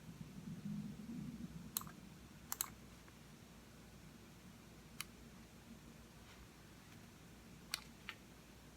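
Computer mouse buttons clicking at a slow, uneven pace: a single click, a quick double click, then scattered single clicks, over a faint low room hum.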